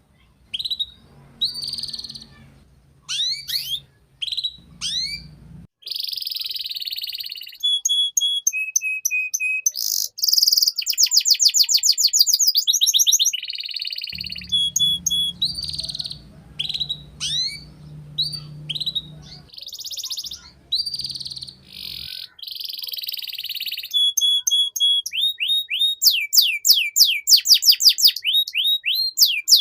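Domestic canary singing a long, varied song: fast trills of quickly rising notes, short runs of steady whistled tones and choppy chip phrases, one straight after another.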